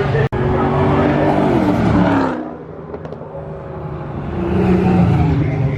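Car engine running under throttle. About two seconds in the revs drop and the sound fades, then it builds again with rising pitch near the end.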